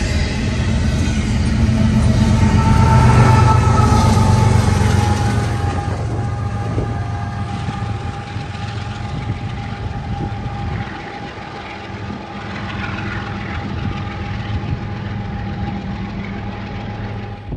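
CN intermodal freight train rolling past at about 38 mph: steel wheels on rail with a dense rolling rumble, loudest about three seconds in and easing off after that. A steady high whine from the wheels runs through it.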